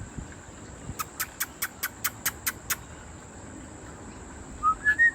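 Birds calling: a quick run of about eight sharp chips, then near the end a short rising note and a run of short, even whistled notes, over the steady high-pitched drone of an insect.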